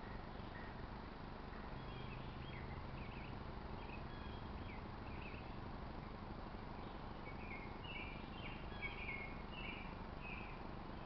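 Small birds giving short, high chirps over a steady outdoor hiss, the chirps coming thicker and louder in the second half.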